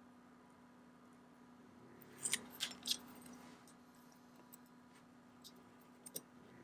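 A few light, sharp metallic clicks and taps from small watchmaker's tools and watch parts being handled: three close together a little over two seconds in, and two fainter ones near the end, over a low steady hum.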